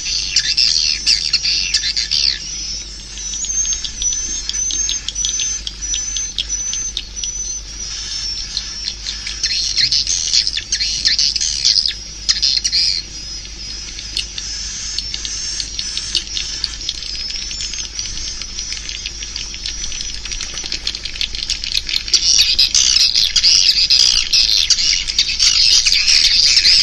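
Swiftlet calls of the kind played to lure swiftlets into a nesting house: dense, rapid twittering and clicking chirps. A run of short high chirps repeats a few times a second early on, and the chatter swells louder in the last few seconds.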